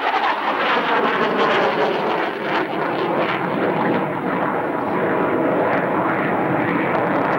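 CF-18A Hornet fighter jet's twin General Electric F404 turbofan engines at high power during a vertical-departure climb: loud, steady jet noise.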